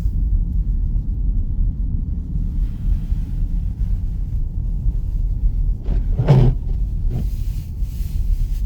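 Steady low road rumble of a car heard from inside the cabin while driving. A brief louder sound stands out about six seconds in, with a smaller one just after.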